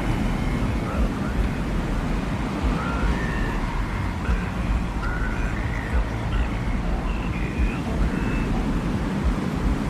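Steady, low rumbling desert wind with no pauses. Faint, short high tones are scattered through it.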